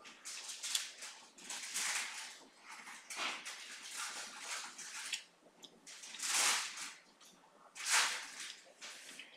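Close-miked chewing of a mouthful of ribeye steak, wet mouth and lip sounds coming in uneven bursts, the loudest two about six and eight seconds in.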